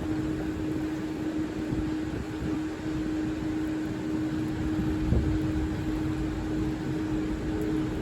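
Train at a railway station giving a steady mechanical hum over a low rumble, with a brief thump about five seconds in.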